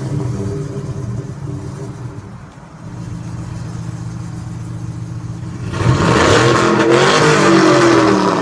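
Loud truck engine running at a steady low pitch, then revved hard about six seconds in, the engine and exhaust getting much louder with the pitch climbing and wavering.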